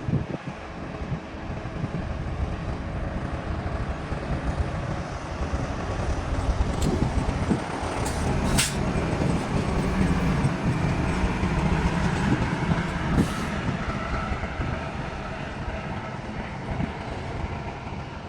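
Train rolling past: a steady rumble of wheels on rail that builds through the middle and eases off toward the end, with a few sharp high metallic clicks.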